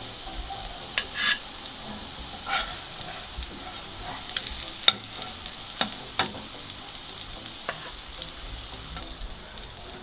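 Hake fish patties sizzling steadily in oil in a nonstick frying pan, with several sharp scrapes and taps of a metal spatula as the patties are lifted out onto a plate.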